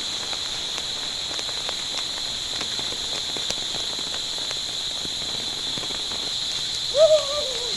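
Rain falling, a steady hiss with scattered small drop ticks. Near the end there is a short high-pitched call that falls in pitch.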